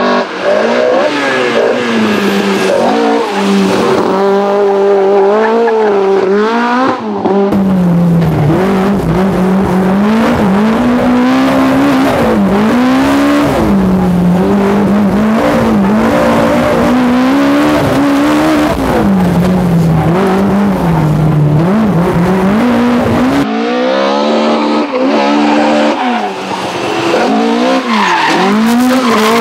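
Toyota AE86 Corolla's 16-valve 4A-GE four-cylinder on individual throttle bodies, revving high and dropping back again and again through throttle lifts and gear changes while the car drifts, with tyre squeal. Through the middle half it is heard from inside the cabin, with a heavy road rumble underneath.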